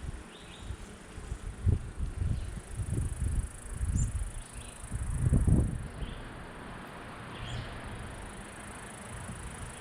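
Honeybees buzzing steadily around an opened hive, with a run of low bumps and rustles, the loudest about five seconds in.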